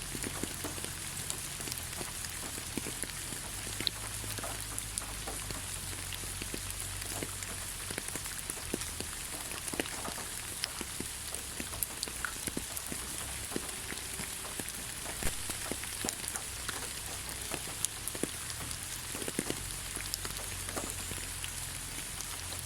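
Steady rain falling on leaves: a constant hiss with many separate drops tapping irregularly.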